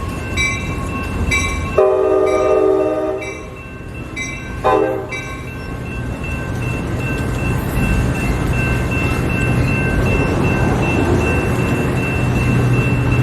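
A train's horn sounds one long blast and then a short one while a bell rings about once a second. The train then rumbles past, growing steadily louder, with a thin high squeal over the rumble.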